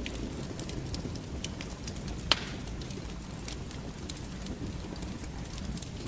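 Fire in a fireplace crackling: a steady low rumble of flames with scattered small pops, and one sharp, louder pop about two seconds in.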